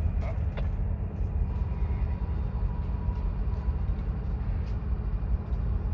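Train rolling past with a steady low rumble.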